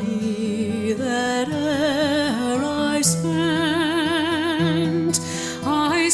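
Slow, tender music: a singing voice holding long notes with vibrato over a steady low accompaniment.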